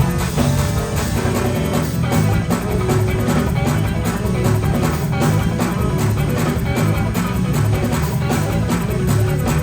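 Live gospel band playing an instrumental vamp with electric guitar, bass and drums, loud and steady, for dancing in a praise break.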